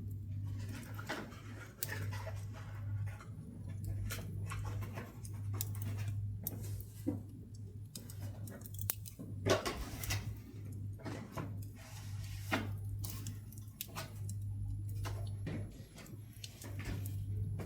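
Pine and scrap wood burning in a wood stove, crackling with irregular sharp pops, one louder pop about halfway through, over a steady low hum.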